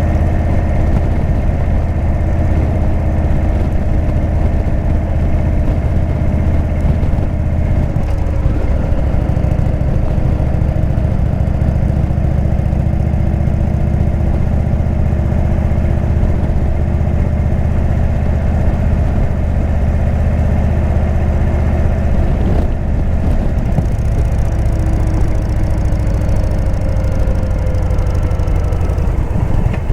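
Indian V-twin motorcycle engine with a Jekill & Hyde exhaust, running steadily at low engine speed, its pitch drifting slightly up and down.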